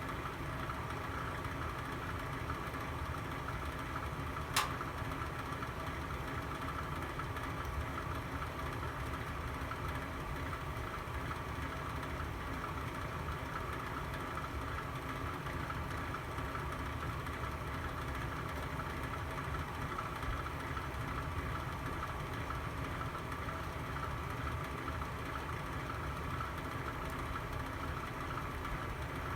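Fireplace burning: a steady hum and rush, with a single sharp pop about four and a half seconds in.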